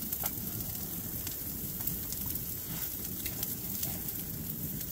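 Food frying in a pan on the tent stove: a low, steady sizzle with scattered light crackles, likely the leftover potatoes warming.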